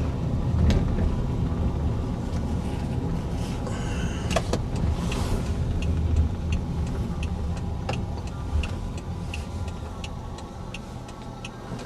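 Car driving, a steady low road rumble heard from inside the cabin. A light, regular clicking about twice a second joins in around the middle.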